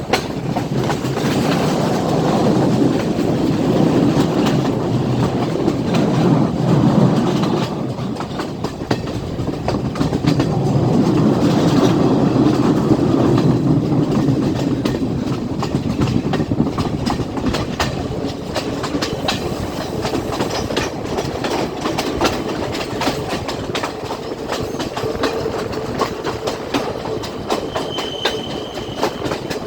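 Class S14 express train running along the line, its wheels clattering over the rail joints in a steady clickety-clack over a continuous rumble. The rumble swells twice in the first half, then eases to a steadier run, with a brief faint squeal near the end.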